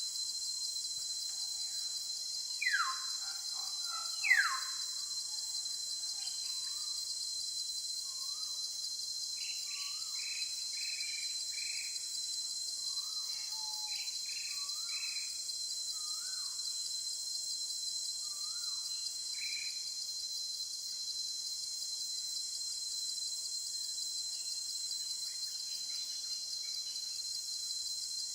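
Steady shrill insect chorus with birds calling over it: two loud falling whistles about a second and a half apart near the start, then scattered short chirps.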